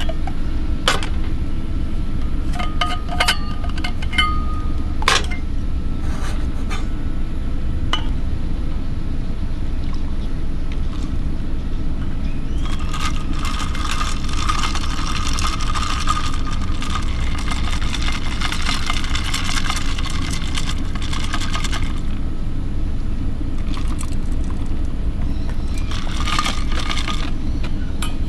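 Ice cubes clinking in a container as iced tea is made: a few separate clinks, then about ten seconds of rapid ice rattling and liquid sloshing, with a shorter burst near the end. A steady low rumble runs underneath.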